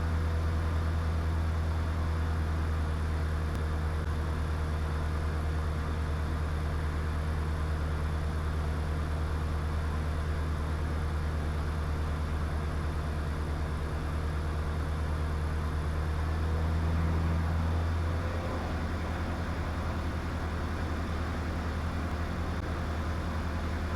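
Diamond DA20's engine and propeller droning steadily as heard in the cockpit, with a faint steady whine above the drone. About eighteen seconds in, the note shifts and the level drops slightly.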